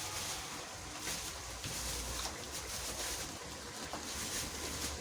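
Wind buffeting the microphone: a steady hiss with a gusting low rumble that picks up about two seconds in, and a few faint clicks.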